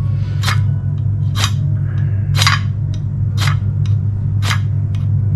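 A metal striker scraped hard down a fire-starter rod to throw sparks, one stroke about every second, with lighter ticks between the strokes. A steady low hum runs underneath.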